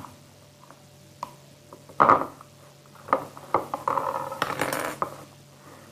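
Slimes and their containers being picked up and handled on a table: light clicks and knocks, a louder clatter about two seconds in, then a stretch of rustling and scraping.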